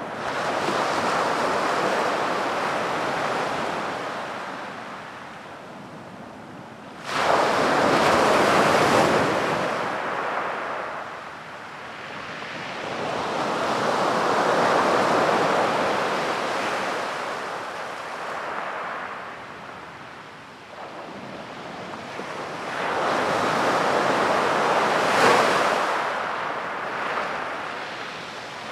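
Ocean waves breaking on a sandy beach, the surf surging and receding in slow swells every several seconds, one wave crashing in suddenly about seven seconds in. Some wind noise on the microphone.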